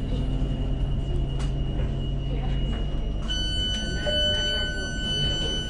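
Tyne & Wear Metro train with a steady low electrical hum. About halfway through, a steady high electronic warning tone sounds for about three seconds.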